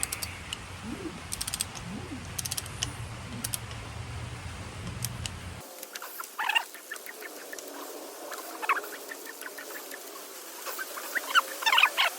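Ratchet wrench clicking in sharp runs as the engine is turned over by hand for a compression test. About halfway through, the low hum drops out and short, high squeaky chirps follow.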